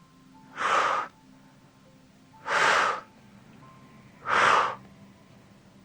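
A person breathing out hard three times, about two seconds apart, each a short breathy rush: steady paced breathing while holding a band stretch.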